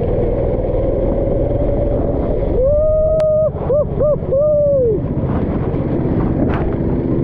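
Racing kart engine running under a steady rumble, its pitch rising and falling in four throttle blips about halfway through, with a single sharp click among them.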